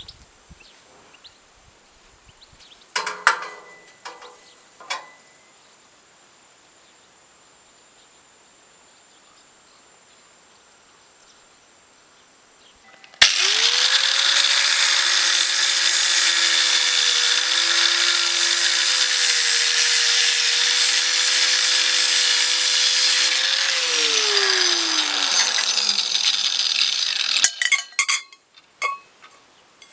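An electric power tool starts abruptly and runs at a steady speed for about ten seconds. It is then switched off, and its pitch falls as it spins down over a few seconds. A few handling clicks come before it and again after it.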